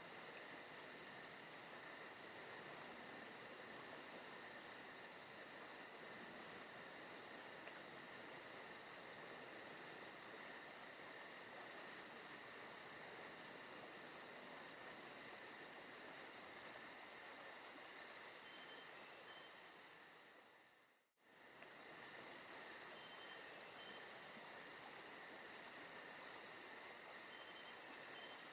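Forest ambience of crickets and other insects chirring steadily over a soft hiss. About three-quarters of the way through it fades out to near silence for a moment, then comes back.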